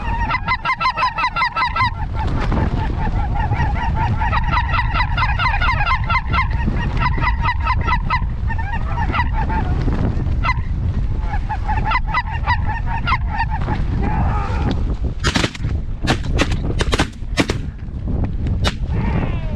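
Snow geese calling, a dense chorus of rapid high honks over steady wind rumble on the microphone. Near the end the calling gives way to a quick series of about half a dozen shotgun shots from several hunters firing at the flock.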